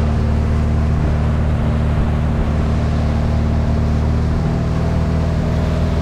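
2008 Sea Ray 175 Sport's engine running steadily while the boat is underway, a constant low drone with a noisy wash of wind and water over it.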